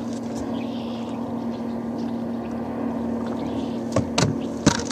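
A steady low motor hum throughout, with a few sharp knocks and clicks about four seconds in and just before the end.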